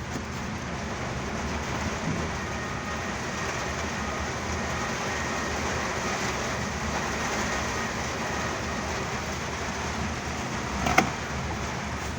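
Steady rain falling on a truck, with the truck's engine running underneath. A single sharp knock about eleven seconds in.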